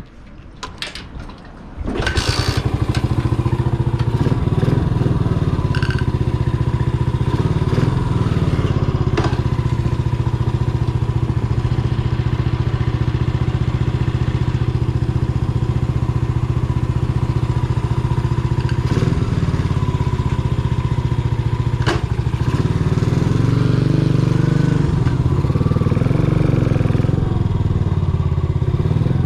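Yamaha SR400's air-cooled single-cylinder engine fires up suddenly about two seconds in, after a few faint clicks, and then runs steadily.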